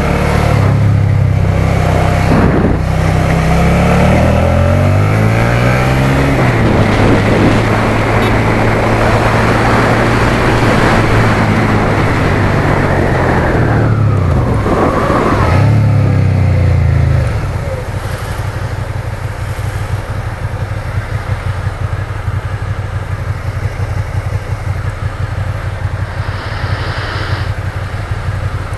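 Suzuki SFV650 Gladius 645 cc V-twin engine pulling up through the gears with pitch rising and dropping at each shift, over steady wind noise. About two-thirds of the way in it is shut off and settles to a low, even idle.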